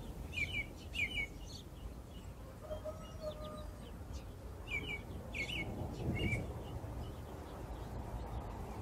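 Birds chirping: about five short bursts of two or three quick high notes, over a low steady rumble.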